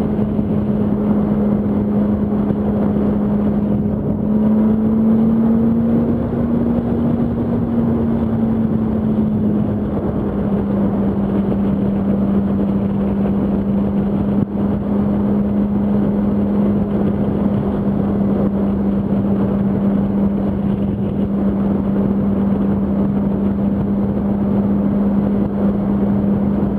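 Yamaha R1 inline-four engine running steadily at about 90 mph, a constant drone over heavy wind and road rush. Its pitch rises slightly a few seconds in, then settles a little lower about ten seconds in.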